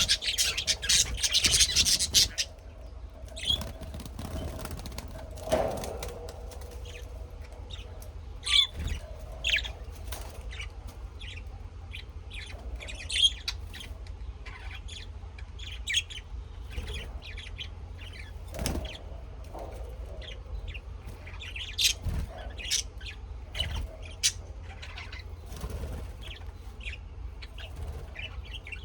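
Small birds chirping. A loud flurry of rapid sound opens the first two seconds or so, then short high chirps and calls come scattered and irregular.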